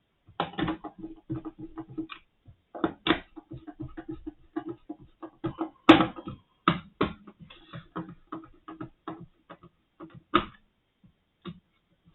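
Irregular clicks, taps and knocks of small parts and a plastic instrument casing being handled and fitted together during reassembly, several a second with short pauses. A loud knock comes about six seconds in.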